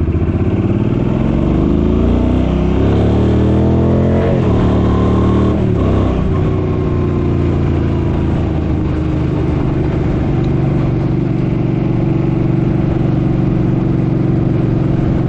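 Suzuki Boulevard M50's V-twin engine accelerating, its pitch rising, then dropping as it shifts up about four seconds in and again around six seconds in, after which it runs at a steady cruise.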